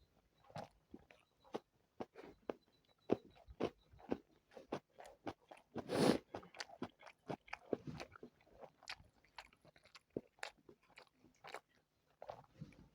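Close-miked eating sounds: chewing and biting into spicy chicken biryani, with many short crunchy clicks and one louder, longer sound about six seconds in.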